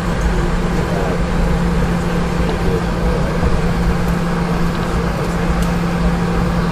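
Steady cabin noise inside a Boeing 717-200 jet airliner: the even rumble and hiss of its Rolls-Royce BR715 engines and airflow, with a constant low hum underneath.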